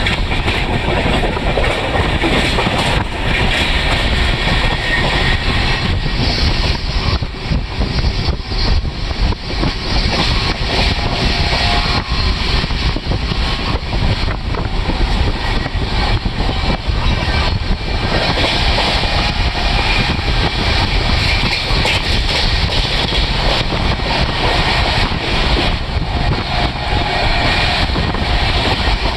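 Kerala Sampark Kranti Express passenger train running along the line, heard from inside a coach: a steady loud rumble and rush with a constant run of small knocks and rattles from the wheels and carriage.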